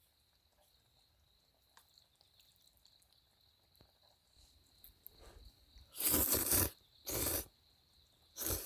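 Crickets chirring in a steady high, unbroken trill. Near the end, three loud, short rushing noises from close by drown them out; their source isn't clear.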